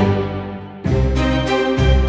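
Orchestral music with strings and a regular beat; it dips briefly, then comes back in loud with deep bass a little under a second in.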